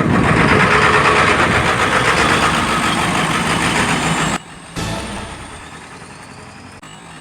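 Skateboard wheels rolling over pavement, a steady loud rumble that cuts off abruptly about four seconds in, followed by a quieter rolling sound that fades.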